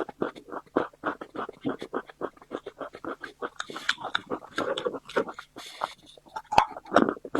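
Close-miked chewing and eating sounds: a rapid, irregular run of short mouth noises, several a second.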